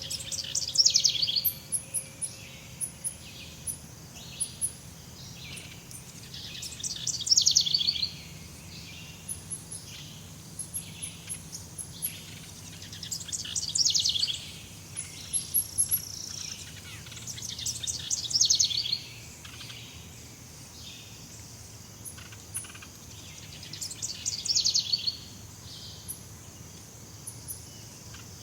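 Jungle ambience: a bird repeats a loud, rapid, rattling call phrase of about a second and a half every five to six seconds, over short high-pitched chirps and a steady high insect drone.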